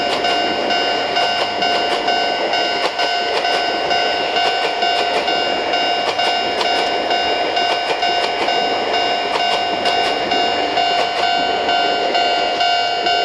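A train passing, wheels clicking over the rail joints, from a Chichibu Railway Deki 500-class electric locomotive hauling ten unpowered Tobu 10030-series cars. A steady high ringing alarm tone sounds throughout.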